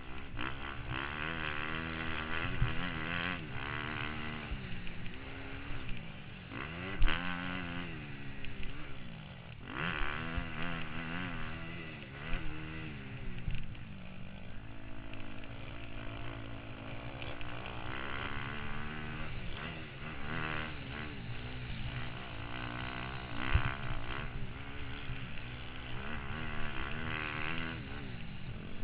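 Motocross bike engine being ridden hard, its revs rising and falling every second or two through throttle changes and gear shifts, heard from the rider's helmet. A couple of sharp knocks stand out, one about a quarter of the way in and one past the three-quarter mark.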